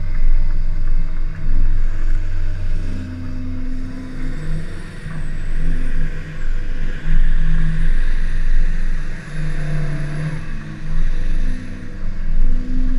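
Chevrolet Cavalier's engine running hard, its speed rising and falling.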